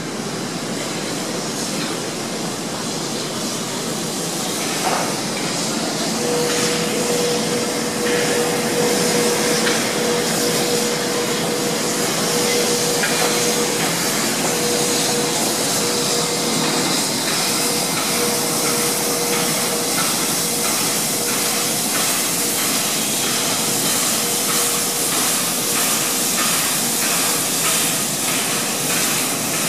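Locomotives at a station platform: a steady hiss of steam from a steam locomotive while a diesel locomotive runs. A steady whining tone joins about six seconds in, and faint regular ticks come through in the second half.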